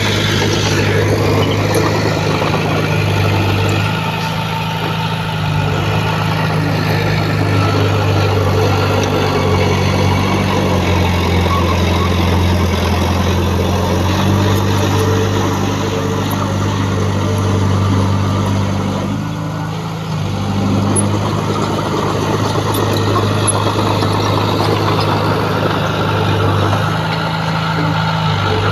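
Heavy earthmoving machine's diesel engine running steadily, its note shifting up and down as the revs change, with a brief drop in level about two-thirds of the way through.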